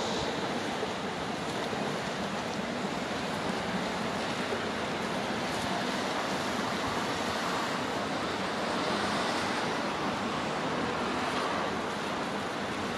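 Wagons of a long container freight train rolling away over the rails: a steady rushing noise of wheels on track.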